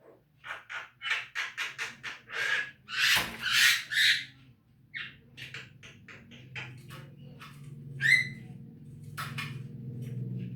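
Javan myna calling: a quick run of short chattering notes, then loud harsh squawks about three to four seconds in, followed by scattered notes and a few sharp calls. A steady low hum sits underneath in the second half.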